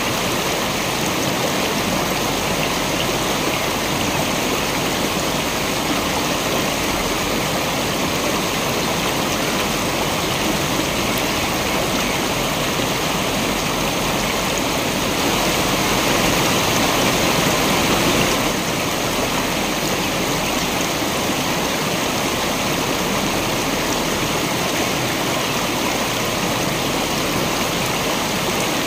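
Waterfall: a steady rush of falling water, briefly louder and brighter for about three seconds midway.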